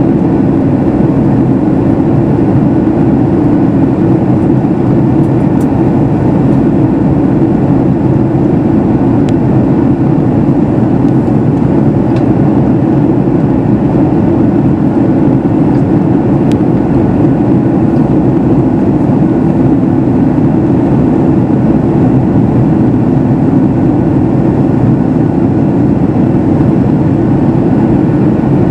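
Steady cabin noise inside a Boeing 737 MAX 8 airliner in flight: an even rush of airflow and the CFM LEAP-1B engines, loud and unchanging.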